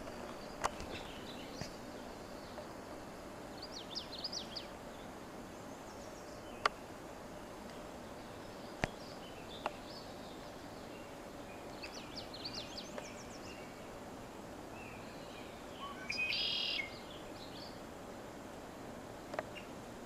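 Small forest birds calling: short high chirps about four seconds in and again about twelve seconds in, then a louder buzzy chatter about sixteen seconds in, over a steady background hiss. A few sharp clicks are scattered through it.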